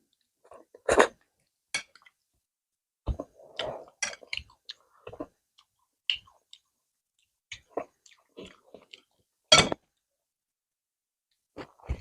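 Close-miked chewing of roti and spicy egg curry: wet mouth smacks and clicks come irregularly with short quiet gaps, the sharpest about a second in and again near the end.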